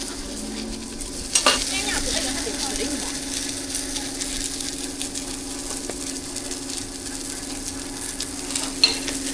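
Food frying in hot oil, sizzling steadily, over a steady low hum. A few sharp utensil clicks come about a second and a half in and near the end.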